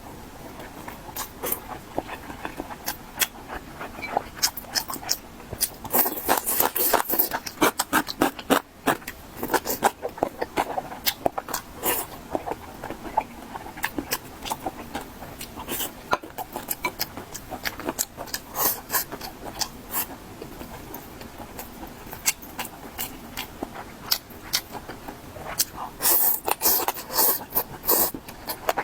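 Close-miked eating of mala xiang guo (spicy stir-fry pot): a dense run of chewing, crunching and mouth smacks, busiest about six seconds in and again near the end.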